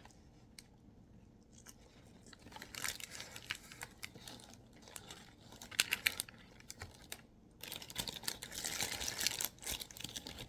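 Food packaging being handled: crinkling and rustling, with scattered small clicks and crackles coming in irregular bursts, busiest near the end.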